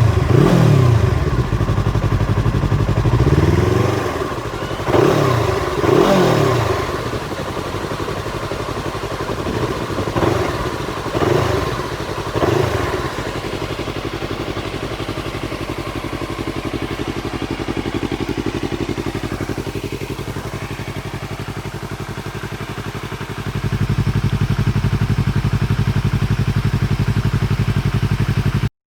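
Yamaha R3's parallel-twin engine revved several times through an aftermarket exhaust, each rev rising and falling quickly, then idling steadily. Near the end it holds at a louder steady run.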